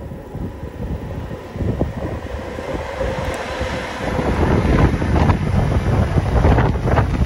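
A Deutsche Bahn electric locomotive approaches with a rumble and a faint steady whine, then passes close about four seconds in. After it come the louder rumble and clatter of empty car-carrier wagons over the rails. Wind buffets the microphone throughout.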